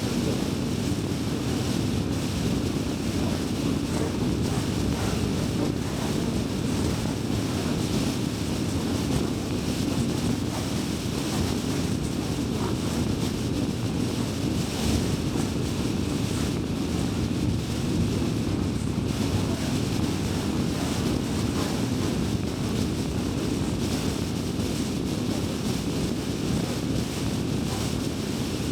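A car driving steadily, with an even rumble of road and tyre noise and engine hum.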